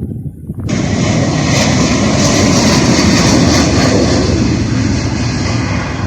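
Jet airliner engines, loud as the aircraft passes close, cutting in suddenly under a second in, swelling to a peak in the middle and easing a little near the end.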